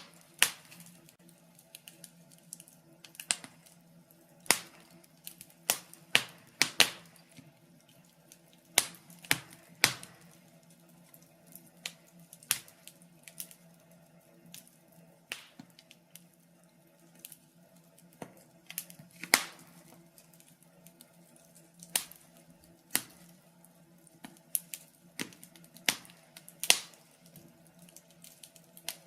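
Logs burning in a fireplace, crackling with irregular sharp pops and snaps of varying loudness over a faint, steady low hum.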